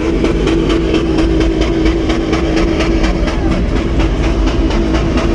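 A motor vehicle engine that has just revved up is held at steady high revs, a constant note with a fast regular ticking over it.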